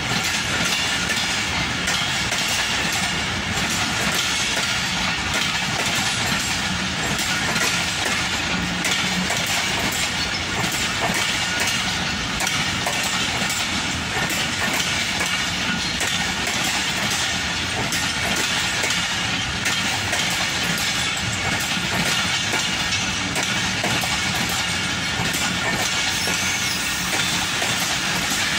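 Passenger coaches of a Pakistan Railways express train rolling past: a steady, unchanging noise of steel wheels running on the rails.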